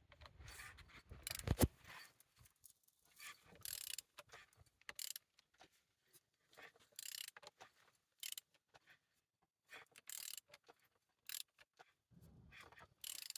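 Ratchet wrench clicking in short irregular bursts as the F9Q760 diesel engine is turned over by hand on its crankshaft, with one sharp metallic knock about a second and a half in. The engine turns freely.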